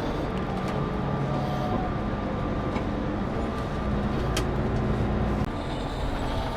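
Scania K410CB coach on the move: steady engine hum and road noise, with a few faint clicks.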